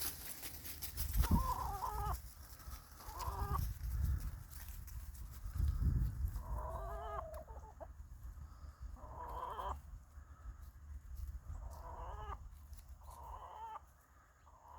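Domestic hens clucking and squawking in short pitched calls, one every second or two, as they squabble over a mouse. Low bumps come in the first half.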